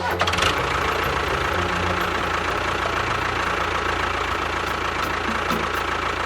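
A motor running steadily: a dense, even whirr with a low hum beneath it, unchanged throughout.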